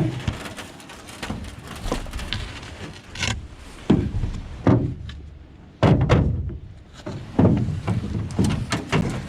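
A string of irregular hollow knocks and thuds as a canoe and gear are picked up and handled.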